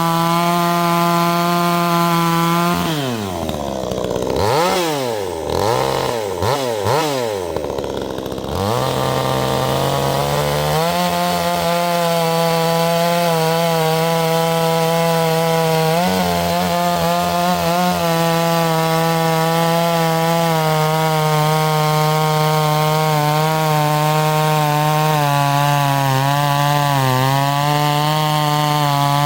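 Vevor 62cc two-stroke chainsaw running at full throttle cutting firewood. A few seconds in, the throttle is let off and blipped back up several times, so the engine note falls and rises repeatedly. It then settles back to a steady high note with brief slight dips as it loads in the cut.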